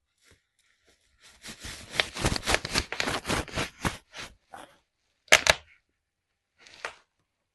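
Bubble wrap crackling and popping under a bare foot: a quick run of many small pops for about three seconds, then the loudest pop a second later and one more pop near the end.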